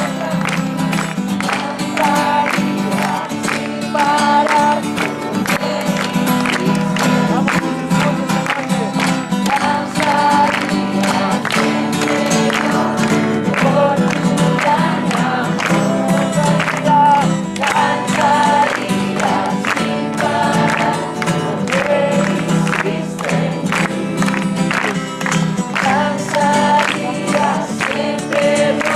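A Christian worship song: voices singing together over steadily strummed guitar.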